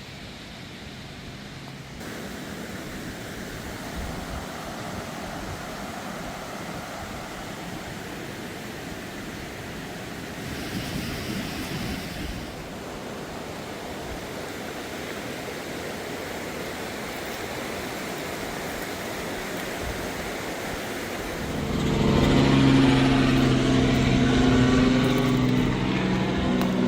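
Steady outdoor rushing noise, then about three-quarters of the way through a motor engine comes in close by and runs loudly with a steady hum.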